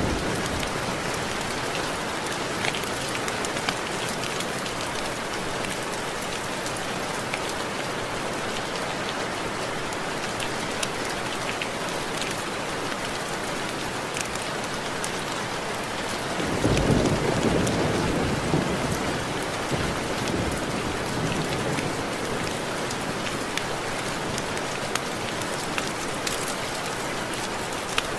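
Steady rain with raindrops tapping on window glass, scattered sharp drop clicks over an even hiss. A low rumble of thunder swells up about 17 seconds in and fades over a couple of seconds.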